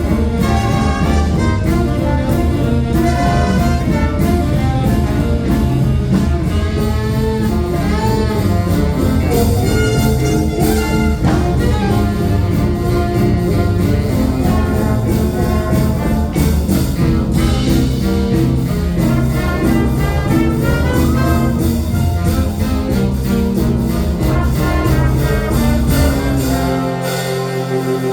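Live jazz band playing a tune. The bass drops away briefly near the end.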